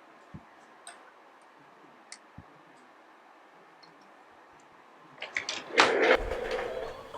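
A few faint, isolated clicks and taps, then about five seconds in a quick run of sharp clicks and a louder clattering, rustling handling noise that lasts about a second and a half.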